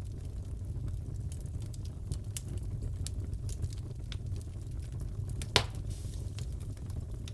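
Crackling wood fire in a fireplace: a low steady rumble with scattered small crackles and one loud pop about five and a half seconds in.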